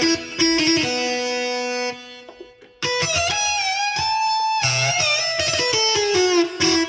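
Yamaha PSR-S970 arranger keyboard playing an electric guitar voice: a short phrase of plucked notes, a quieter gap about two seconds in, then held notes bent up and down.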